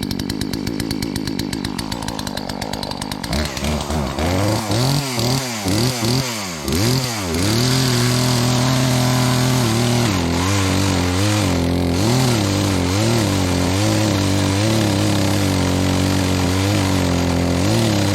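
Gasoline chainsaw idling with a fast, even putter for about three seconds, then revved up and down several times. It is then held at high speed, with its pitch sagging briefly again and again.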